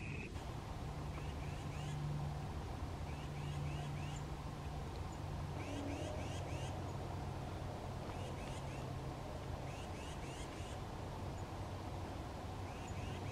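Small songbird calling: quick runs of three or four short, high chirps, repeated every second or two, over a steady low hum.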